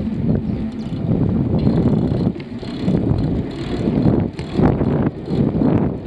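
Wind buffeting the microphone on a moving bicycle, a loud uneven rumble that rises and falls in gusts.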